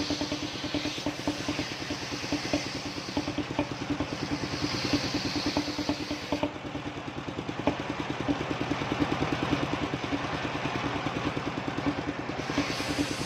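Engine-driven circular sawmill running, its engine beating fast and steadily. A higher hiss over it fades about six and a half seconds in and comes back near the end.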